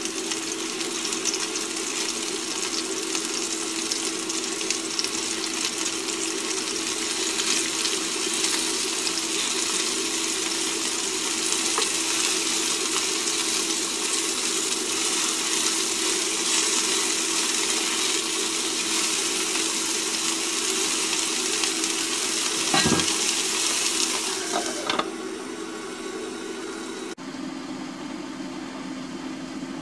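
Sliced shiitake mushrooms sizzling steadily as they sauté in a frying pan, stirred with a silicone spatula, over a steady low hum. A single knock comes about three-quarters of the way through, and near the end, with the lid on the pan, the sizzle turns quieter and duller.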